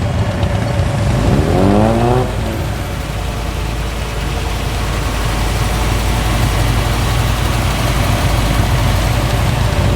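Performance car engines rumbling low as cars roll past at low speed, with one engine revving up briefly about a second in, its pitch rising, then settling back.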